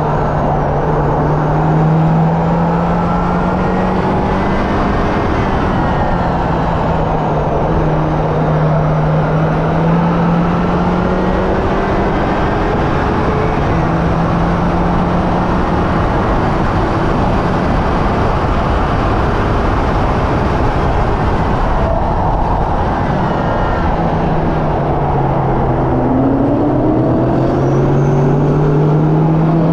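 Hyundai Elantra N's turbocharged 2.0-litre four-cylinder engine driven hard around a track. Its note climbs and drops again and again through the gears, over a steady rush of tyre and wind noise.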